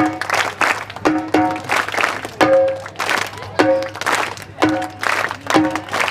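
Parai frame drum struck in short pairs of ringing beats, answered by a group clapping in time between them, in a steady pattern of about one cycle a second.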